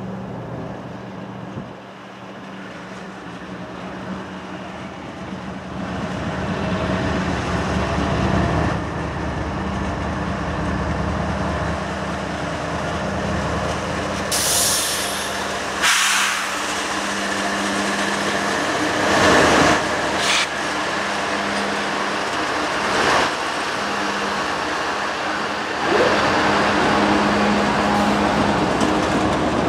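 CSX freight train approaching and passing close by, led by diesel locomotives: a steady engine drone that grows louder as the locomotives come up, then the rumble of wheels and tank cars rolling past. Several short sharp noises cut through as the locomotives go by.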